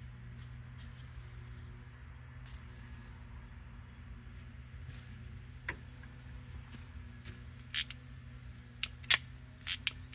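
Two short hissing bursts from a WD-40 aerosol can, then a run of sharp metallic clicks as the rust-seized hand tool, now freed by the penetrating oil, is worked open and shut, the clicks coming faster near the end.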